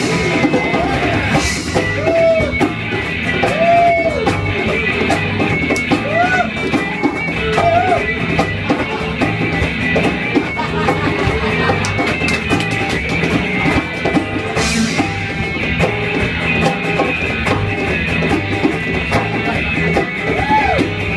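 Live rock band playing an instrumental passage with guitar and drum kit.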